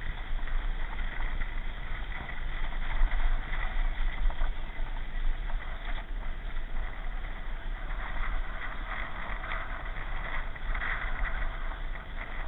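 Steady rushing noise with a strong low rumble underneath and no distinct events.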